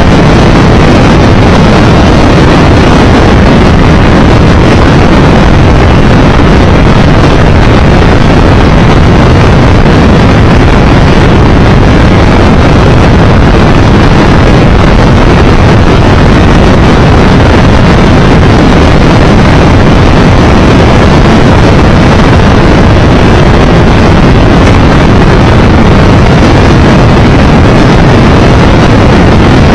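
Loud, steady wind rush on the microphone of a Triumph Tiger Explorer 1200 motorcycle on the move, with road and engine noise mixed in.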